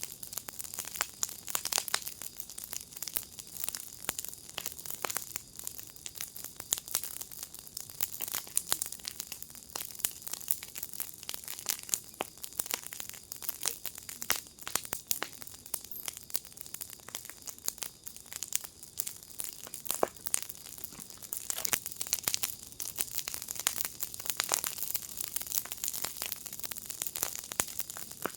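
Firepit fire crackling: a dense, steady stream of small pops and snaps over a soft hiss, with occasional louder pops.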